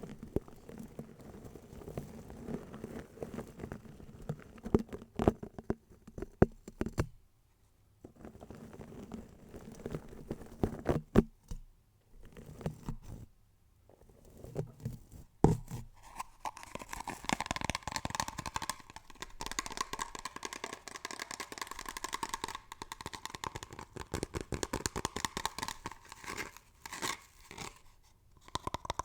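Close-miked ASMR trigger sounds: crackly, crinkling handling noise with scattered sharp clicks and short pauses, turning about halfway through into a dense, rapid crackling scratch.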